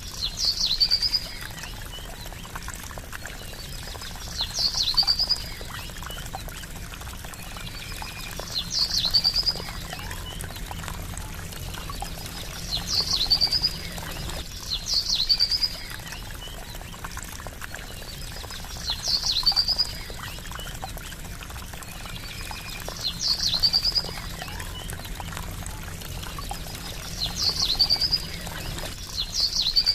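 Steady trickling, gurgling water, with a short high-pitched animal call repeating about eight times, every two to four seconds, louder than the water.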